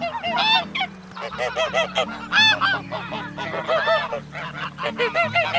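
Several domestic geese honking, short arched calls coming several times a second and overlapping one another.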